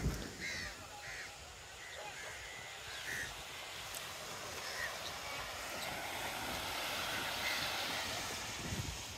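Several short bird calls, a second or more apart, over a steady rush of outdoor noise.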